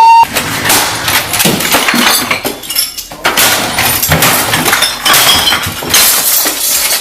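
Glass cracking and crunching, a dense run of sharp clinks and cracks.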